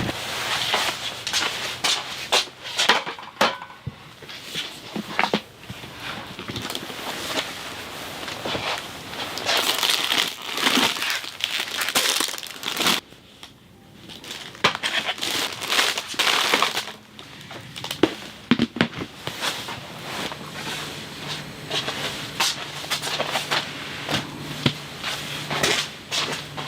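Irregular crunching and crackling with many sharp clicks, dipping briefly about halfway through.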